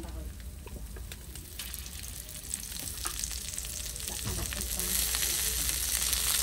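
Hot oil sizzling in a wok as sliced shallots, garlic and small round green vegetables begin to fry. The sizzle, with small crackles, grows steadily louder from about a second and a half in.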